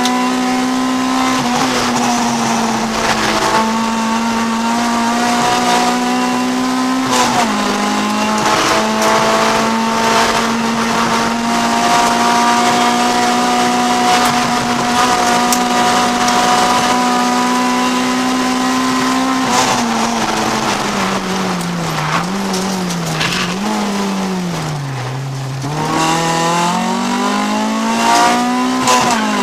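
Honda CRX race car's B20 VTEC four-cylinder engine heard from inside the cabin, running at high revs at a near-steady pitch with a brief dip about seven seconds in. From about twenty seconds the revs fall in several dips and then climb again toward the end.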